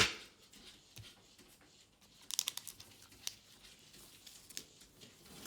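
A sharp tap at the start, then a brief bout of crinkling and rustling from handled packaging and cards, with a few faint ticks.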